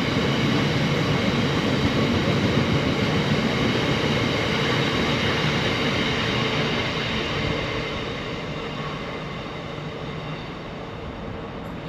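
A train running past on the line, steady and loud at first, then fading from about seven seconds in as it draws away.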